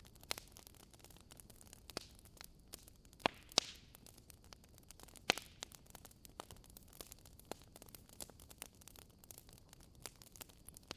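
Wood fire crackling in a fireplace: scattered sharp pops and snaps over a soft hiss, with two louder pops about three and a half seconds in and another just after five seconds.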